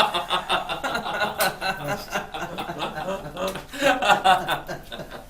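Men laughing and chuckling in pulsing bursts, loudest at the start and again about four seconds in, with one sharp click about a second and a half in.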